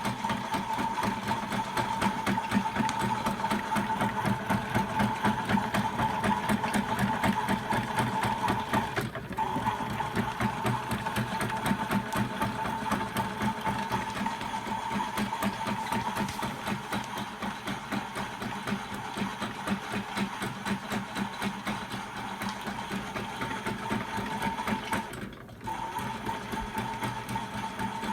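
Small electric motor of a WashMatic toy washing machine running, with a steady high whine and a fast, even chatter. The sound breaks off for a moment twice, about a third of the way in and near the end.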